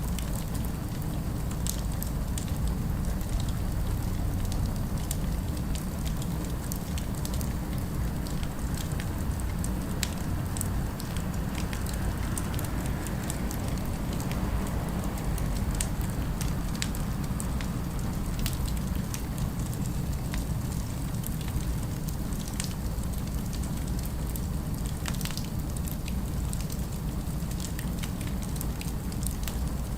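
Wood fire crackling, with irregular sharp pops scattered over a steady low rumble of city ambience.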